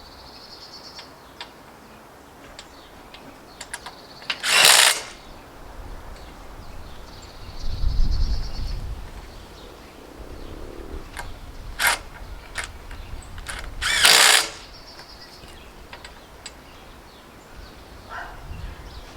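Two short bursts of a power tool, about ten seconds apart, with scattered knocks and clicks of tool work between them. Birds chirp in the background.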